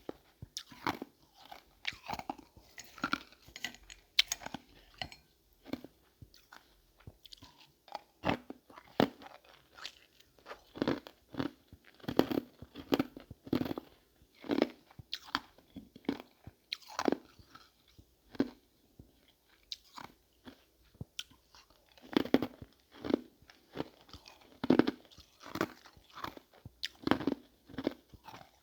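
Frozen ice marbles being bitten and chewed close to the microphone: a long run of separate sharp crunches, one or two a second, thinning out for a few seconds past the middle.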